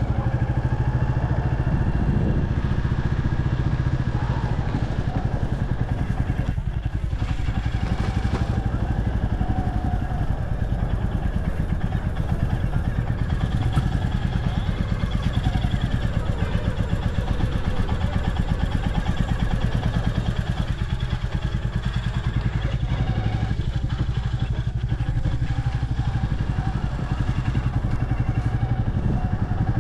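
Motorcycle engine running steadily with a fast, even low pulse while riding.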